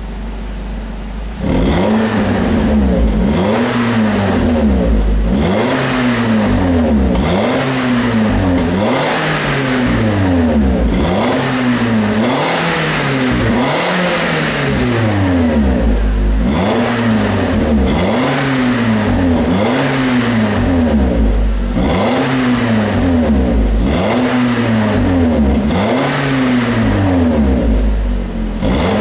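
Nissan Rogue's 2.5-litre four-cylinder engine through an aftermarket sport muffler, idling briefly and then free-revved over and over, its exhaust note rising and falling roughly once a second.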